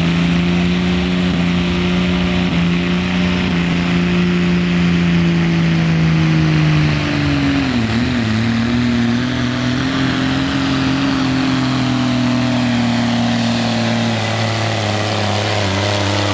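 Diesel pickup truck engine running hard under load in a truck pull. Its pitch holds steady, then dips and settles lower about halfway through as the engine is pulled down, and stays low to near the end.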